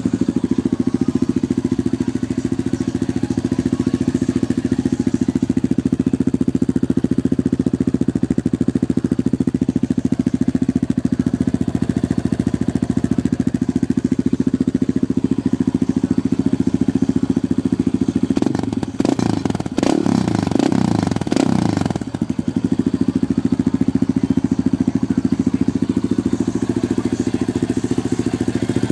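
Yamaha Raptor quad's single-cylinder engine idling steadily through an FMF aftermarket exhaust, with a few quick revs about two-thirds of the way through before it settles back to idle.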